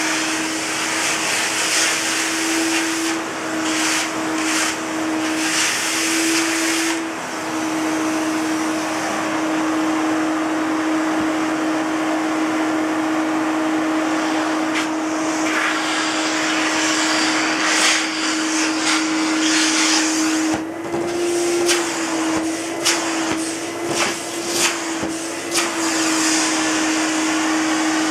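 Elektro Helios ES908E canister vacuum cleaner's 850 W motor running, a steady whine over rushing air. The whine's pitch rises briefly a few times, and the airflow changes with short irregular dips and clicks in the second half.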